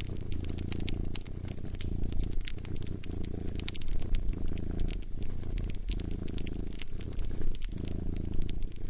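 A cat purring in a steady low rumble with brief breaks about every second and a quarter, over a wood fire crackling with frequent sharp snaps.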